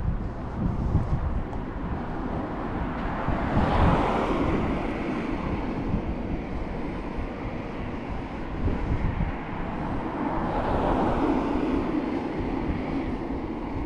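Wind buffeting the microphone in uneven low gusts over a steady outdoor rush. Two longer swells of rushing noise come about four seconds in and again from about ten to thirteen seconds.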